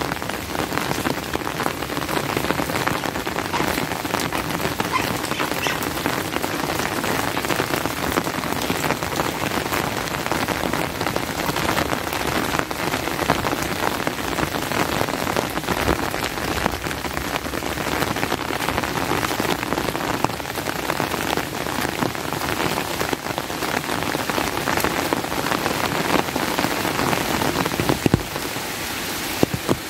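Steady rain falling, with many close drop hits ticking through the constant hiss.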